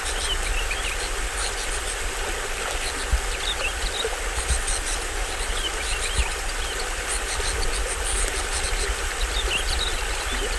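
Small waterfall splashing steadily into a stream. Insects trill in quick high pulses, and forest birds chirp briefly now and then. A deep rumble runs underneath.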